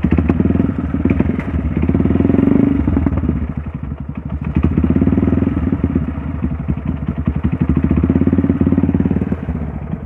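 Trail motorcycle engine running close by, the throttle rising and easing off in three swells between steadier idle.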